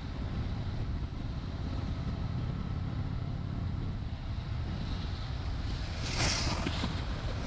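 Honda Shadow 750's V-twin engine running steadily under a low rumble of wind on the microphone. About six seconds in, a brief louder rushing hiss passes.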